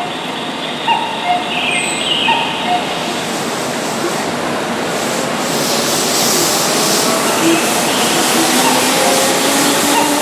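Keihan electric commuter train running past close by on the platform track, the noise of its wheels and running gear swelling from about five seconds in, with a faint wheel squeal.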